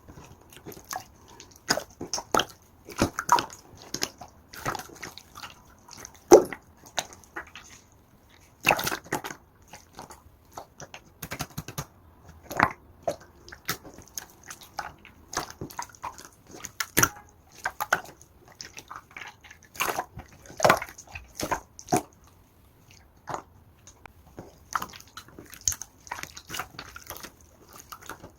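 Clear slime being squeezed and pressed by hand, giving an irregular run of wet clicks and pops.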